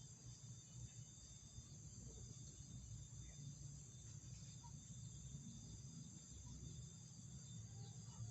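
Faint steady high-pitched insect drone over a low rumble, with no bird calls.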